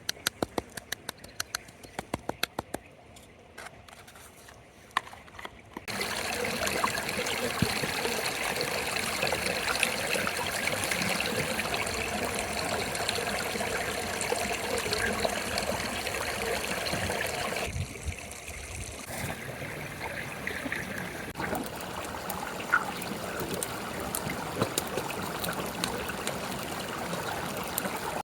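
Running, trickling water, steady after a few seconds of sharp, irregular clicks near the start.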